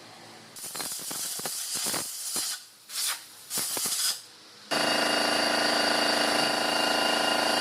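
Hissing in several short bursts with brief gaps, then a steady machine hum with a high whine that starts suddenly about two-thirds of the way in.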